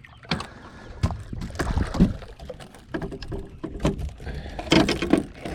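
Irregular knocks and thuds on a fishing boat as a hooked blue catfish is lifted out of the water and aboard. The loudest thud comes about two seconds in, with more knocks near the end.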